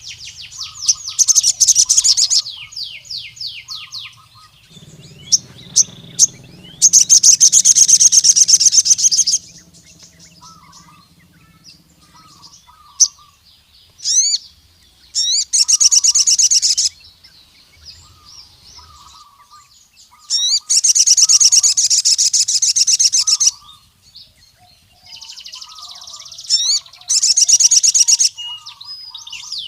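Male sogon sunbird (an Aethopyga sunbird) singing in full, loud voice. It gives bursts of very rapid, high-pitched trilled notes, each lasting a second or two, five times over, with single sharp chirps between them. This is the territorial song a male uses to call out a rival male.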